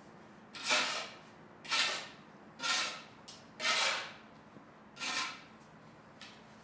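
Five short scraping strokes, about one a second, each rising sharply and fading within half a second.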